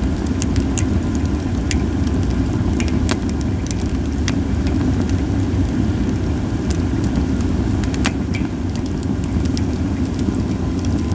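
Japanese white pine burning in a campfire, giving scattered sharp crackles and pops, about one or two a second, with little hissing. Under them runs a steady low rumble.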